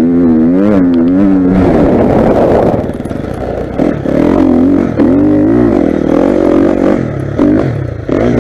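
Motocross bike engine ridden hard, the pitch rising and falling over and over as the throttle is opened and closed. It drops off briefly about three seconds in and again just before the end.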